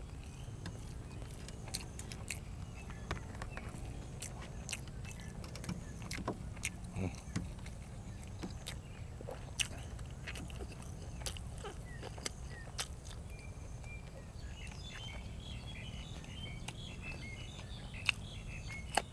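A person eating spicy raw shrimp salad and fresh vegetables: scattered short crunches and clicks of chewing over a steady low rumble. Faint bird chirps come in over the last few seconds.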